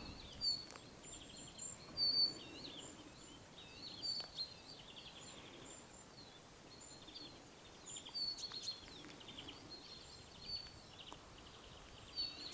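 Small songbirds singing in a forest: faint, high twittering chirps and short rapid trills from several birds, coming and going throughout.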